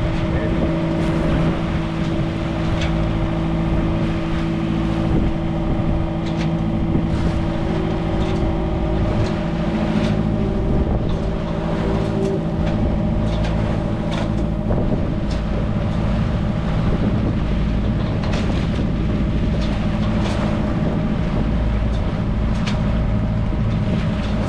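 Sailing ketch's auxiliary engine running steadily while the boat motors under power, a constant hum with a few faint knocks scattered through it.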